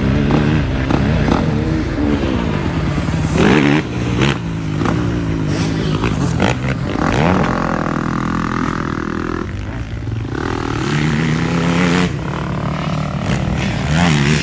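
Yamaha YFZ sport quad's engine being ridden hard, its pitch rising and falling again and again as the throttle is opened and shut, with a few sharp knocks and clatters along the way.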